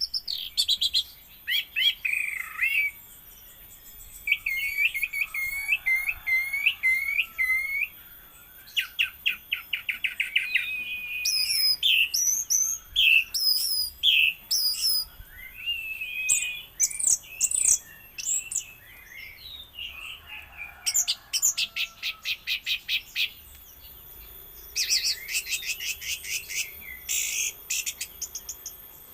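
Orange-headed thrush (anis merah) singing a long, varied song: whistled phrases, rapid runs of repeated notes and fast trills, broken by short pauses.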